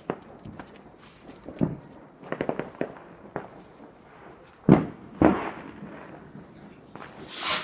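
Fireworks going off: scattered bangs, a quick run of crackles about two and a half seconds in, two loud bangs near the middle, then a hissing whoosh that swells near the end.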